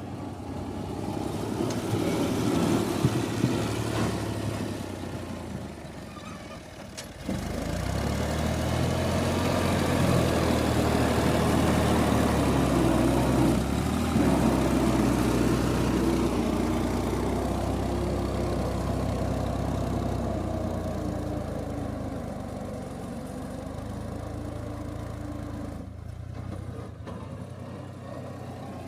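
New Holland Ghazi tractor's diesel engine running under load with a front blade, its pitch and level shifting as the load changes. It dips briefly about seven seconds in, then runs louder and steadier before easing off toward the end.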